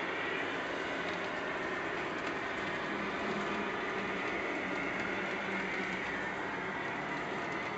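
Model railroad train running, a steady even noise with a faint low hum underneath.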